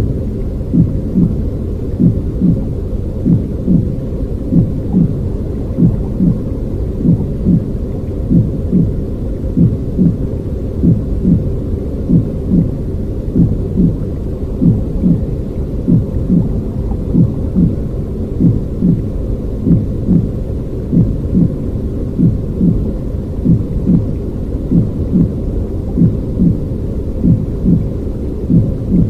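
Baby-soothing sleep-noise track: a deep, steady rumbling noise with a soft regular pulse about one and a half times a second running through it.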